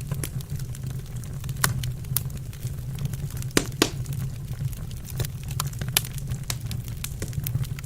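Wood fire burning in a fireplace, crackling with irregular sharp pops over a steady low rumble; two louder pops come close together about three and a half seconds in.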